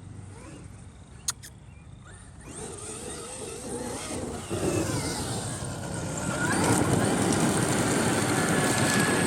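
Traxxas XRT RC monster truck's brushless electric motor whining and its tyres tearing through grass, growing louder from about two and a half seconds in and loudest near the end. A single sharp click about a second in.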